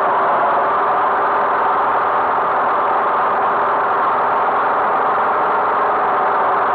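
Tractor engine running steadily, with no change in speed or load.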